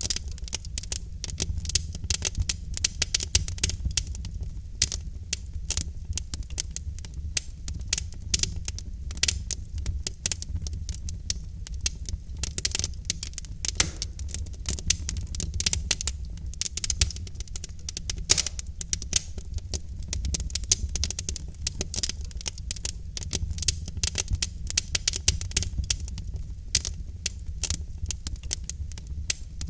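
Wood fire of burning logs in a fireplace, crackling with many quick irregular pops and snaps over a steady low rumble of the flames.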